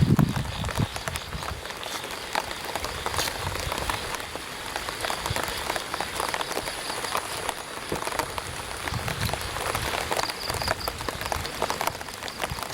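Light rain pattering on an umbrella: a dense, steady scatter of small drop ticks, with occasional low thumps of footsteps, the strongest right at the start.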